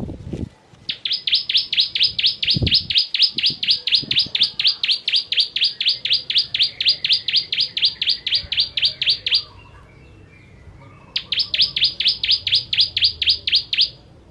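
Bar-winged prinia (ciblek kristal) singing its rapid 'tembakan' song: sharp high notes repeated evenly at about four a second in a long run, then after a short pause a second, shorter run near the end. A couple of low thuds sound near the start.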